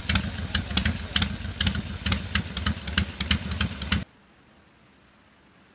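Buell XB12S air-cooled V-twin engine running at idle, with sharp cracks about four or five times a second over its low running note. The sound cuts off abruptly about four seconds in, leaving near silence.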